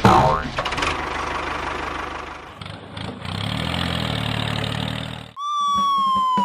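A small engine running rough and low after a sudden loud hit at the start. About five seconds in, it cuts off and a single long whistle-like tone sets in, sliding slowly down in pitch.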